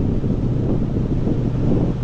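Wind rushing over the microphone of a moving motorcycle, with the bike's engine droning steadily underneath.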